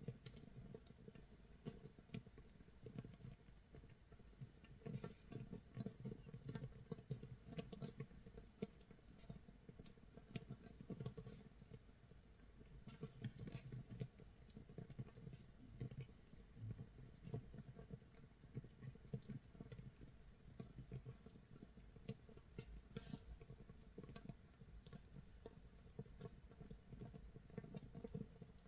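Makgeolli base mash (mitsul) fermenting in its jar a day after mixing: gas bubbles popping at the surface make a faint, continuous, irregular crackle, like rain, rice crust toasting or a wood fire.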